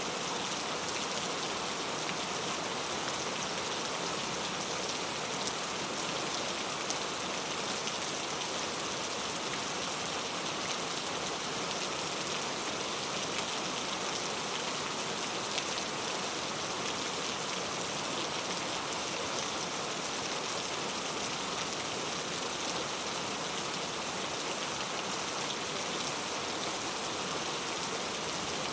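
Steady rain falling, an even hiss with fine raindrop ticks throughout.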